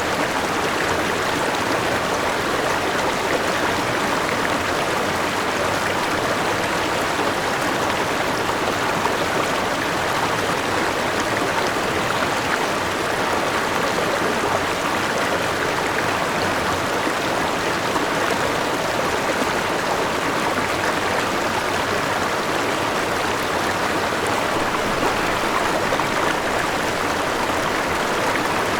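A forest river rushing steadily over a small waterfall and rocks, a dense, even water noise with no breaks.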